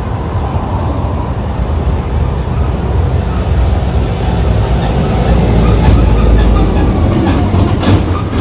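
Low rumble of a heavy road vehicle passing close by, building to its loudest about six seconds in and then fading, with a couple of sharp knocks near the end.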